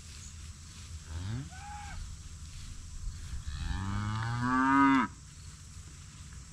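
A cow mooing twice: a short rising call about a second in, then a longer, louder moo that ends abruptly about five seconds in.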